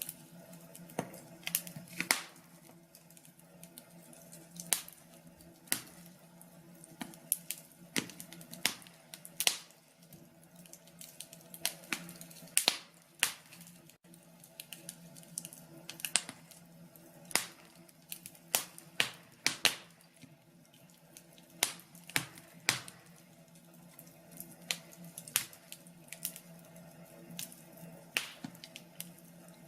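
Wood fire crackling, with irregular sharp snaps and pops, sometimes several in quick succession, over a faint steady low hum.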